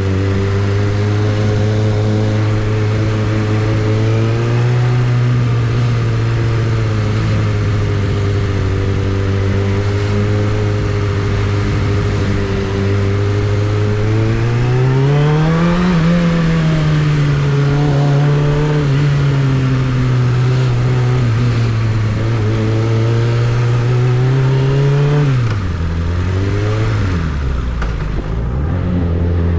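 Suzuki Bandit 600's inline-four engine running, its note holding steady for long stretches. About halfway through the revs climb to a peak and settle back. Near the end the revs drop sharply, rise briefly twice, and pick up again.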